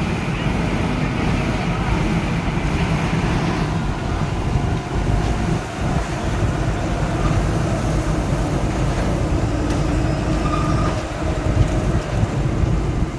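Heavy vehicle engine running steadily with a low rumble, with voices in the background.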